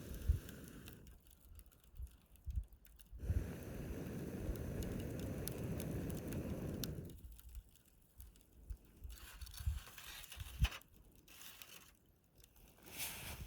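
Wood fire in a fire pit crackling, with sharp pops now and then and a denser rustling burn that eases off after about seven seconds.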